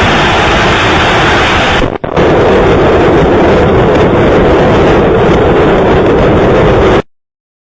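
Loud, distorted, steady rushing roar of vehicle and wind noise on a dashcam microphone. It drops out for an instant about two seconds in, comes back heavier, then cuts off abruptly a little before the end.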